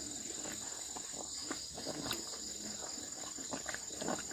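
A steady high-pitched insect chorus, like crickets, with scattered faint light clicks.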